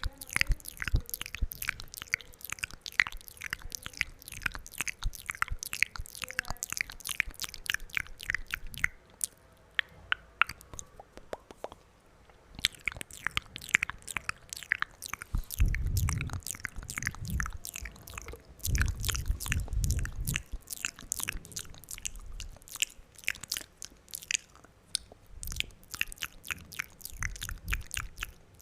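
Close-miked wet mouth sounds: rapid, dense clicks and smacks of the lips and tongue, pausing briefly about a third of the way in, with a few low muffled thumps in the middle.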